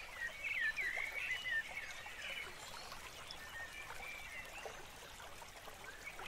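Birds chirping: short, quick calls gliding up and down, busiest in the first couple of seconds, over a faint steady hiss with small crackles.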